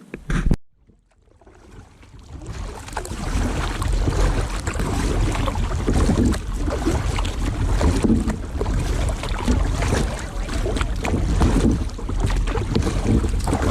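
Wind buffeting a camera microphone, with water noise from kayaks paddling on open water. It starts with a brief knock, drops away for about a second, then rises over the next two seconds and carries on.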